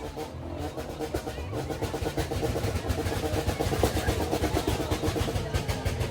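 Car engine running, its pitch rising briefly about two seconds in as it is revved.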